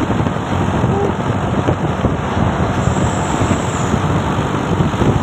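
Truck engine running steadily under way, with road noise.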